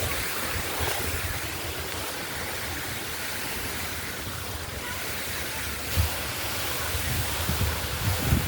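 Steady hiss of rushing water from a waterfall and stream. Low buffeting on the microphone comes in over the last few seconds.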